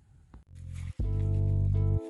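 Power sander switched on about half a second in and running loud and steady, with a hum of several steady tones, while stripping engine-bay paint toward bare metal.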